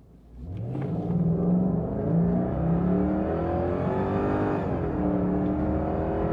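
Jaguar XK8's V8 under hard acceleration through the automatic gearbox, its pitch climbing, dropping at an upshift about four and a half seconds in, then climbing again.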